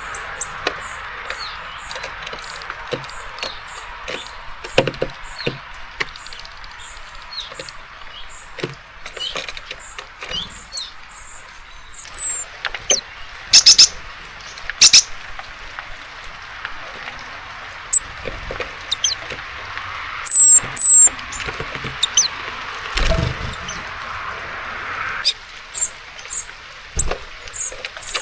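Small songbirds at a seed feeder: repeated short, high chirps and calls, a few very loud ones close to the microphone about halfway through, over sharp clicks and taps of birds pecking and hopping on the feeder. A steady hiss of rain runs underneath.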